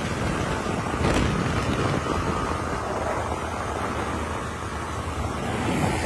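A motor running steadily under heavy wind noise on the microphone.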